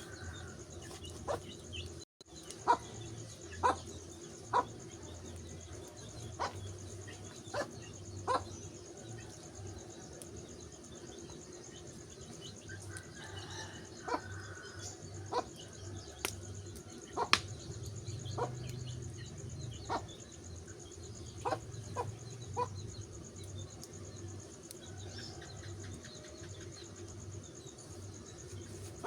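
Wood fire crackling, with sharp, irregular pops about every second or two over a steady low background hum.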